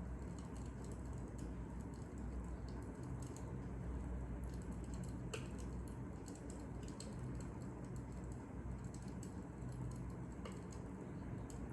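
Fire crackling: irregular small snaps and pops over a steady low rumble.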